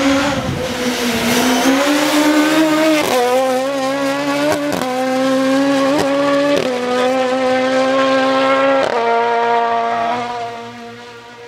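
Race car engine held at high revs, its pitch staying nearly level with several short breaks and small steps, then easing off and fading near the end.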